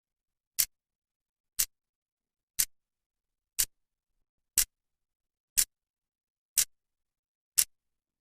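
Clock's second hand ticking once a second, crisp even clicks with silence between them.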